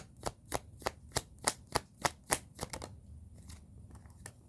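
Tarot cards being shuffled by hand: a run of sharp, even slaps about three a second that stops a little under three seconds in, followed by a couple of fainter taps.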